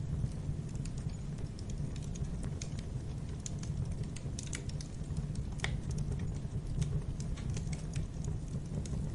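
Wood fire burning in a fireplace: irregular crackles and small pops over a steady low rumble of the flames, with one louder pop about five and a half seconds in.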